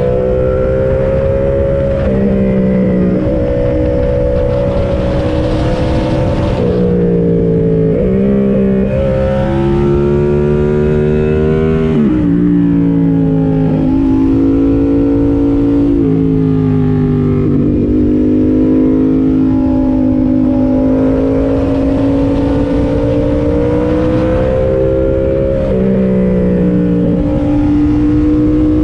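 Yamaha MT-07's parallel-twin engine running under way, its note rising and falling with the throttle and shifting in pitch several times, as at gear changes.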